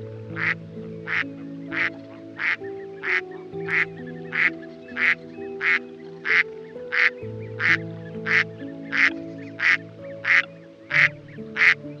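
A duck quacking in a long, very even series of about two quacks a second, over background music with slow held notes.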